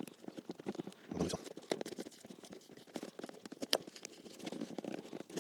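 Irregular scraping and clicking of a hand tool working the cork filler out of the bottom of a stripped leather shoe, with a few louder knocks.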